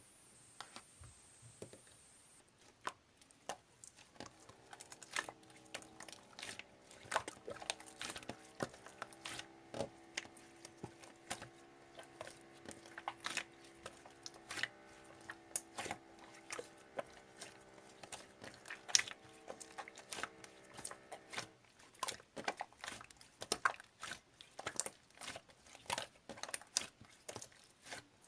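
Close, irregular crackling clicks and crunches, as of something crisp or sticky being pressed and pulled by hand, with a faint steady hum underneath from about four seconds in to past the middle.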